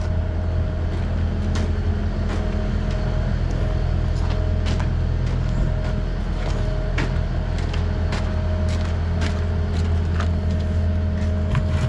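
Truck engine idling steadily, with scattered light clicks over it.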